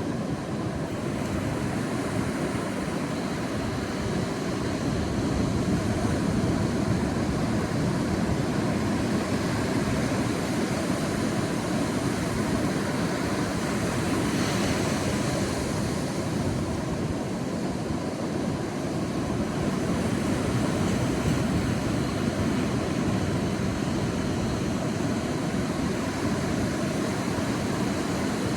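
Sea surf washing on a beach: a steady rushing of waves that swells and eases slowly a few times.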